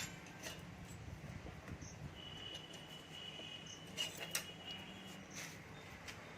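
A few light metallic clicks of engine parts being handled, over a faint steady hum, with a thin high-pitched tone holding for about three seconds in the middle.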